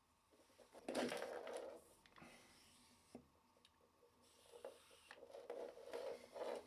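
Handling noises: a scraping and rubbing burst about a second in, a couple of light clicks, then a run of short irregular rubs near the end.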